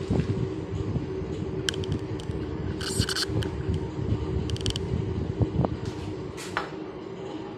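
Belt-driven milling machine running, a steady hum and rumble from the motor and pulley drive, with a few short high-pitched scrapes or squeaks breaking in.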